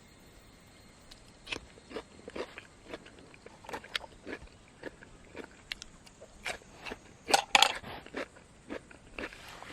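Irregular crunching and snapping clicks, a few per second, with a louder cluster of crunches about seven seconds in.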